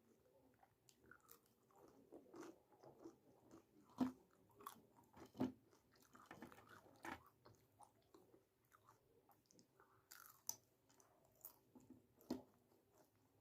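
Close-up eating sounds of a person chewing chhole bhature and jalebi with her mouth: soft wet chewing and smacking, with a few sharper bites standing out, about four seconds in, at five and a half seconds, and twice near the end.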